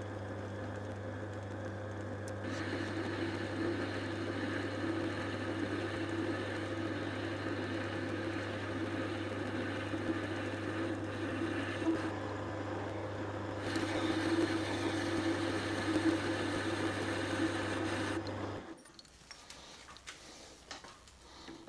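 Metal lathe running under power, turning a diameter: a steady motor hum, with cutting noise from the tool that gets louder about two seconds in. The lathe stops abruptly about three seconds before the end, leaving only faint small sounds.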